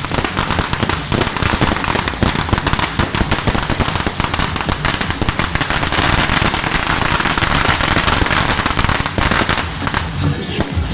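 Strings of firecrackers going off in a dense, continuous crackle, a little fuller past the middle.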